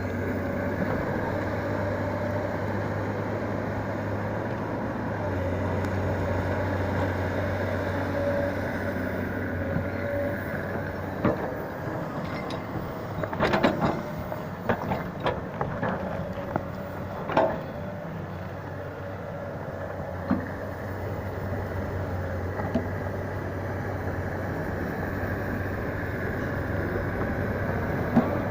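A heavy vehicle's engine running steadily while hauling logs. A series of sharp clanks and knocks comes about halfway through.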